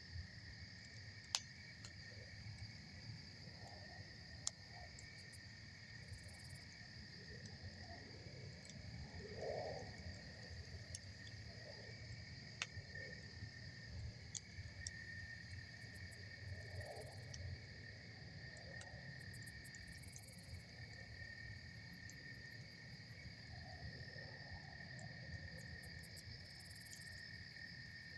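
Campfire crackling with a few sharp pops, the loudest about a second and a half in, over a steady high trilling chorus of crickets and a low, even rush of river water.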